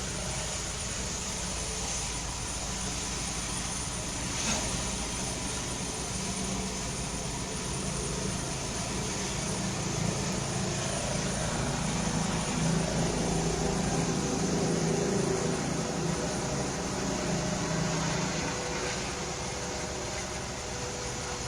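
Helicopter running: steady engine and rotor noise with a steady high whine over it.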